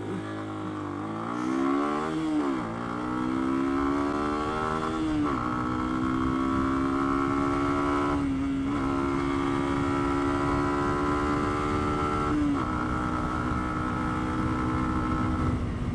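Lexmoto Venom 125's single-cylinder four-stroke engine accelerating hard through the gears. The revs climb and then drop at an upshift about two and a half and about five seconds in, and after that they are held high and steady, with brief dips around eight seconds and twelve and a half seconds. Steady wind noise runs underneath.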